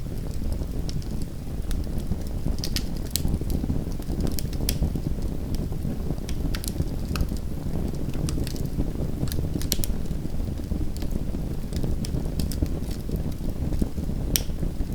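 Small wood fire in a home fireplace crackling: sharp pops and snaps at irregular intervals over a steady low rumble of burning.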